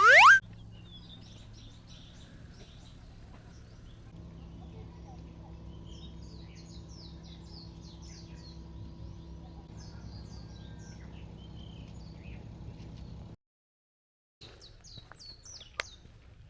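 Small birds chirping, many short high calls one after another over a steady low hum. A loud rising whistle opens it, and the sound drops out for about a second near the end.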